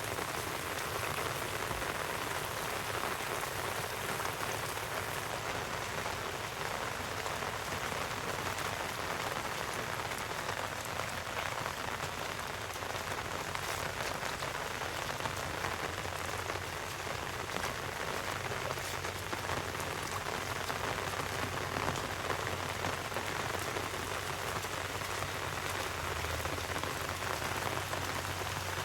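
Heavy rain falling steadily: a dense, even hiss of drops with fine ticks of individual drops striking.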